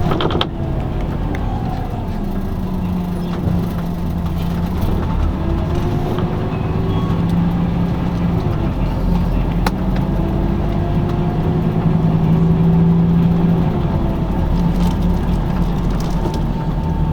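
LiAZ-5250 bus engine and drivetrain running under way, heard from inside the bus: a steady low hum, with a whine that rises in pitch and falls back several times as the bus gathers speed and shifts. A sharp click at the very start.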